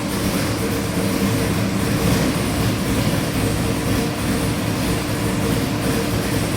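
Chevy LS 441-cubic-inch V8 running at a steady speed on an engine dyno, a loud, even exhaust note that holds one pitch without revving.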